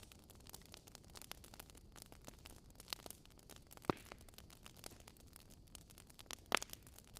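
Wood fire crackling softly, with many small snaps and two louder pops, about four seconds in and again near six and a half seconds.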